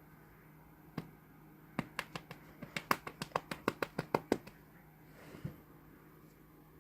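A quick run of sharp clicks, about fifteen in under three seconds, roughly five a second, with a single click about a second in and another near the end.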